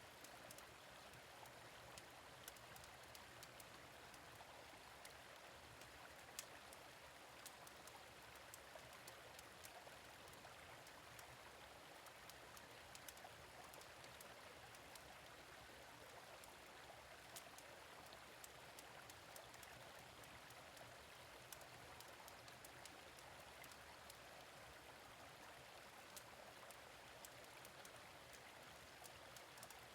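Gentle stream running steadily, with the irregular small pops and snaps of a crackling fire in a fire pit over it.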